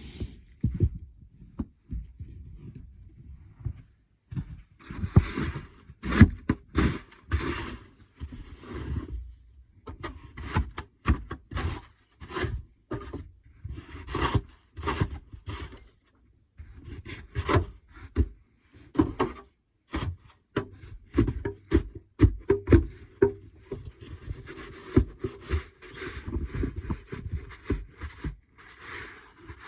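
Irregular scraping and rubbing strokes with knocks, coming in clusters with short pauses.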